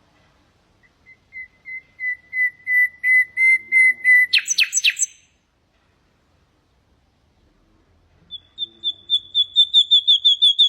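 Nightingale singing two phrases. Each is a run of repeated piping notes that swells in loudness. The first is lower and ends about four seconds in with a few harsh notes; the second, after a pause, is higher and quickens near the end.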